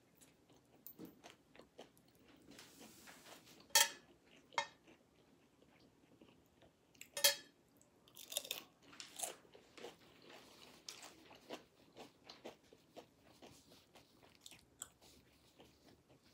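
Tortilla chips crunching as a person bites and chews nachos, in scattered short crackles with two louder sharp cracks about four and seven seconds in and a busier run of smaller crunches soon after.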